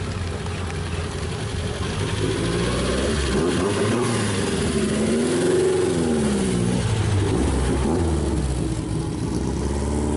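Car engines running as cars drive out, with one engine note rising and then falling in pitch midway through.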